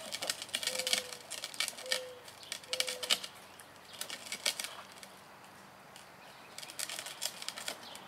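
Clattering clicks in bursts from a child's ride-on toy bike rolling along, with three short squeaks about a second apart in the first few seconds. It goes quieter in the middle before the clatter picks up again.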